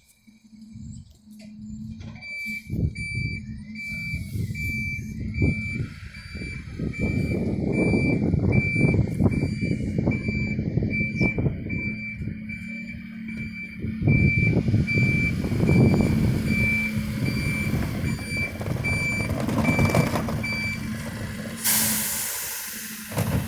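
Dennis Eagle refuse truck reversing, its reversing alarm beeping about twice a second over the running diesel engine. Near the end the beeping stops and a short burst of air hisses out.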